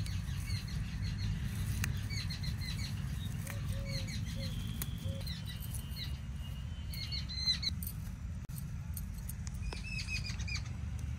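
Small birds chirping in short, repeated calls, with a few lower calls about four seconds in, over a steady low rumble.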